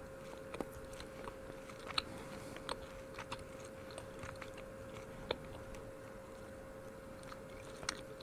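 Someone chewing a piece of turkey jerky close to the microphone: faint, irregular mouth clicks and small crunches, a few sharper ones spread through.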